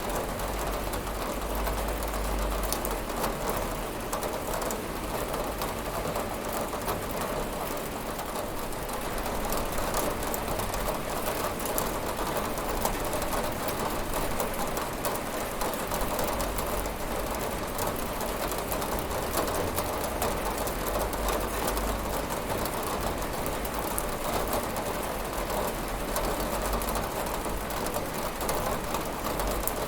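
Steady rain falling on a window, a dense spatter of drops over a low rumble, with no change in strength.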